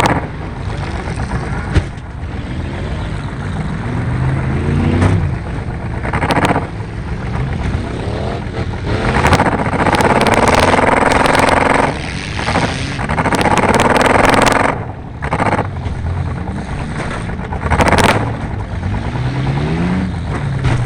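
Car engine revving up and easing off again and again, its pitch rising on each acceleration, with two long stretches of loud rushing noise in the middle and scattered sharp clanks.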